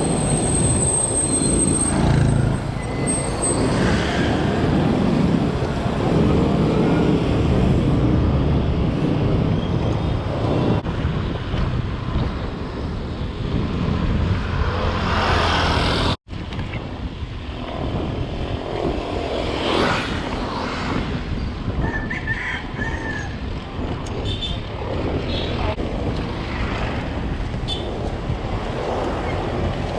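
Rumbling wind and road noise on a bike-mounted or helmet camera during a ride, with motor traffic around. It breaks off for an instant just past halfway and continues a little quieter.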